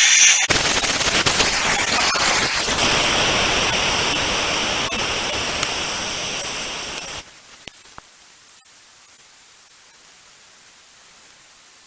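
Air hissing out of a tractor tire's open valve stem with the valve core removed, fading gradually as the tire loses pressure and stopping about seven seconds in, with a few small clicks.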